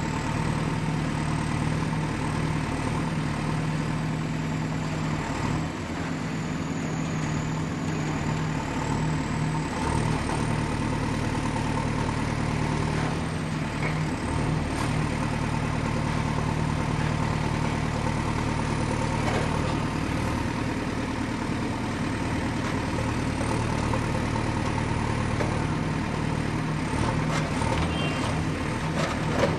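Excavator's diesel engine running steadily with a deep, even hum, a faint high whine above it that wavers slightly in pitch.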